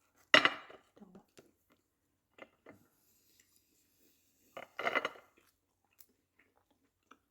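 Two short bursts of clattering and crunching, about half a second in and again a little under five seconds in, with a few light clicks between them: dishes being handled and crisp fried dough being eaten.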